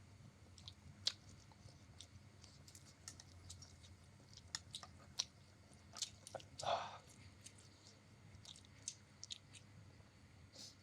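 Close-miked chewing of egg noodles, with many small sharp mouth clicks and smacks and one brief louder noisy sound about two-thirds of the way through.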